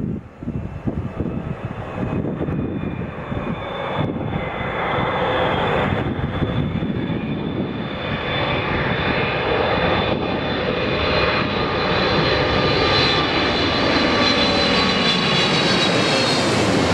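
Boeing 777-300ER's GE90-115B turbofan engines on landing approach, a jet rush with a high whine that grows louder as the airliner comes closer, its tones dipping in pitch near the end as it passes.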